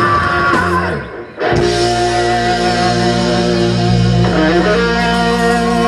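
Live rock band with the last sung word of a line, then a brief stop about a second in. Electric guitars and bass then hold long ringing chords, moving to a new chord about four seconds in, as the song draws to its close.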